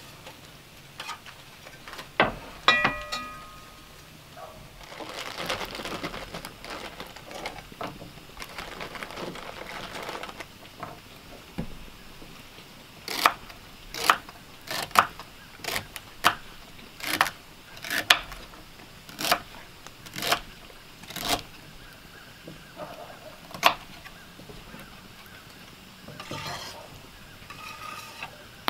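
Cooking sounds: a metal utensil clinks and rings against a pot, then a stretch of sizzling or stirring hiss, then about a dozen sharp knocks roughly a second apart, like a knife chopping on a board.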